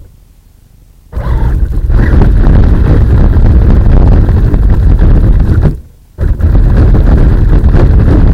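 Traxxas Rustler RC stadium truck driving, picked up by its onboard camera: a loud, rough rumble of drivetrain and vibration that starts suddenly about a second in, drops out briefly near six seconds, then comes back just as loud.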